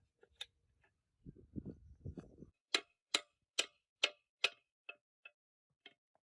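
A run of sharp taps, about two or three a second, five strong ones followed by a few fainter, more widely spaced ones; a low rustling handling noise comes just before them.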